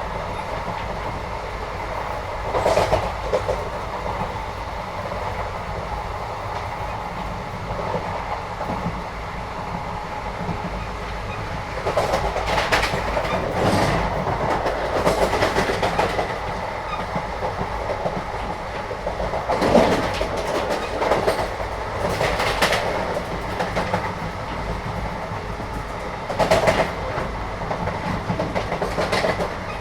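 Inside a moving Indian passenger train: a steady rumble of the carriage with wheel clatter, and bouts of louder rattling and knocking now and then.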